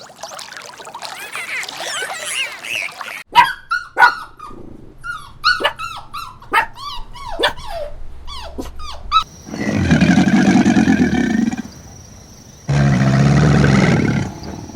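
A dog barking and yelping in a quick run of short, sharp calls, followed by two long, deep animal calls of about two seconds each.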